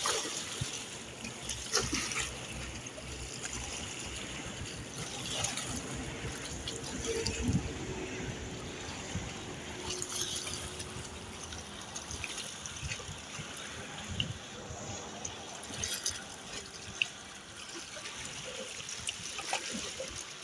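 Small waves lapping and trickling at the water's edge, a steady wash with scattered faint clicks and knocks.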